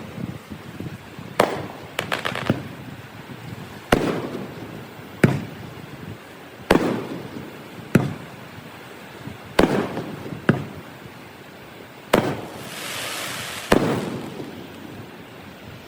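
Aerial fireworks shells bursting, about a dozen sharp bangs one every second or so, each followed by a rumbling echo. A hissing crackle runs for about a second near the end.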